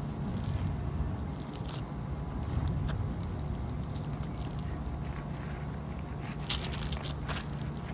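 Scrapes and light clicks of a tool working under roof shingles to separate them and free the nails, with sharper scrapes in the second half, over a steady low rumble.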